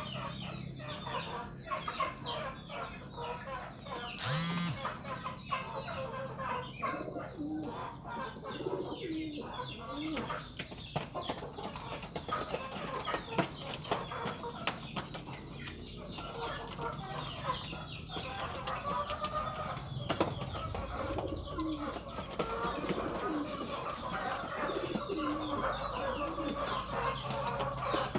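Domestic pigeons cooing in low, short notes amid a dense, continuous chatter of many birds calling, fowl-like clucks among them. A brief louder rising call stands out about four seconds in.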